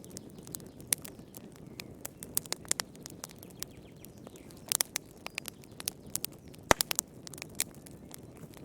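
Wood fire crackling in a fireplace: irregular sharp pops and snaps over a steady low rumble of the flames, with one louder pop about two-thirds of the way through.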